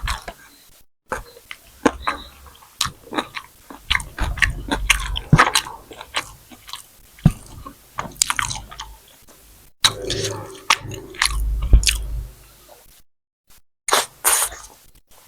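Close-miked mouth sounds of someone eating: irregular chewing, biting and wet smacking, with sharp clicks and a few crunches.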